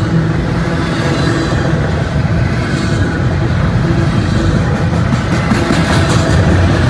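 Double-stack container well cars rolling past at close range: a steady, heavy rumble of steel wheels on rail, with rapid clicking from the wheels and couplers from about five seconds in.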